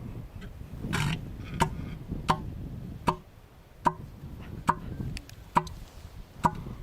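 Elephant seal calling: a short burst of breath, then a rhythmic train of about seven sharp, knocking pulses a little under a second apart, steady like a ticking clock.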